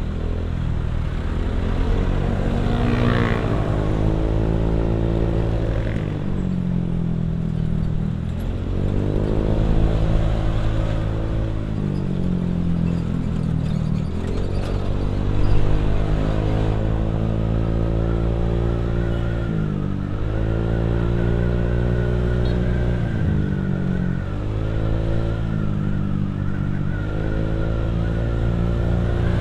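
Motorcycle engine ridden under acceleration, climbing in pitch and dropping back at each gear change several times over, with a thin steady whine joining about halfway through.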